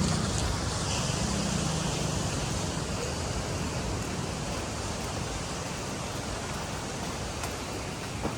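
Steady hiss of rain and surf, slowly getting quieter, with the low hum of a passing motor fading away over the first couple of seconds.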